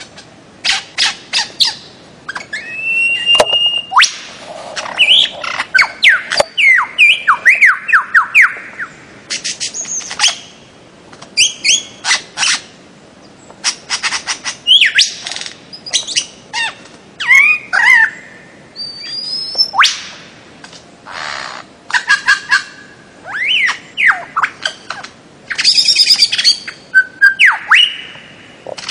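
Bird-of-paradise calling: a busy run of loud calls made of quick strings of sharp notes and whistled notes that slide up or down, with short pauses between phrases.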